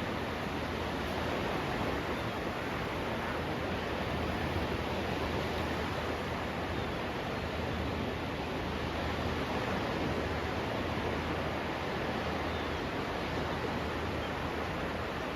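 Steady rushing noise of the seashore, surf and wind together, even throughout with no distinct events.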